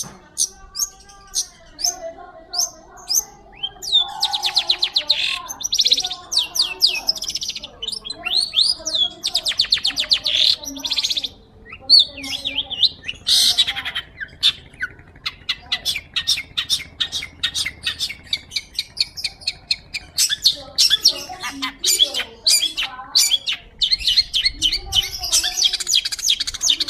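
Long-tailed shrike singing a varied, continuous run of fast trills, sharp repeated notes and harsh chattering phrases.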